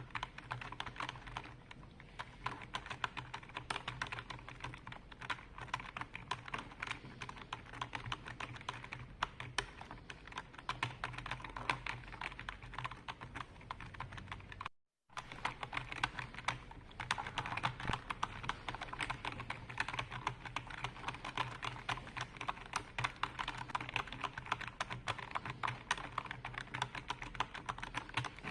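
Typing on a computer keyboard: a steady, dense stream of key clicks. The sound cuts out completely for a moment about halfway through, then the typing carries on.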